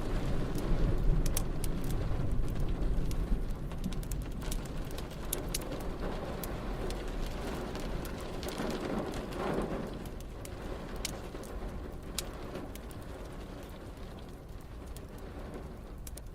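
Steady rain with a roll of thunder rumbling and fading over the first few seconds, and scattered sharp crackles and pops from a wood fire.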